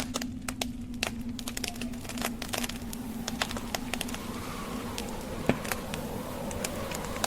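Log fire crackling with irregular sharp pops, one louder pop about five and a half seconds in, over the steady blowing of a snowstorm wind that takes on a wavering whistle in the second half.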